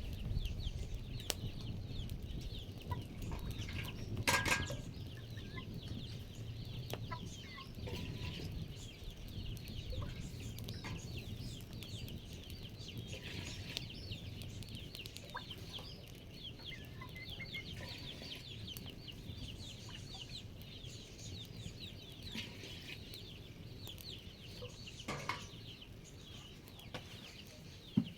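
Backyard chickens clucking over a busy, continuous chatter of short high chirps. One louder call stands out about four seconds in, and another near the end.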